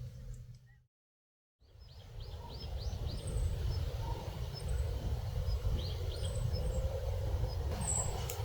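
Outdoor ambience: small birds chirping in short runs of quick calls over a steady low rumble, after a brief silent gap about a second in.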